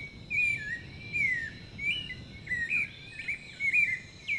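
Birds singing: a steady run of short whistled notes that rise and fall, with fainter, higher chirps above them.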